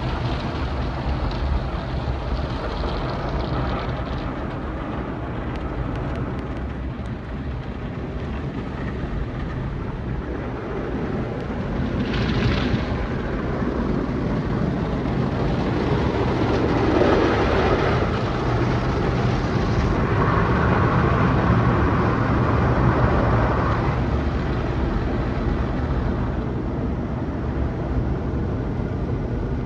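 Automatic tunnel car wash machinery running: a steady low hum with swelling washes of spraying and whooshing noise, one about twelve seconds in and a louder stretch in the second half.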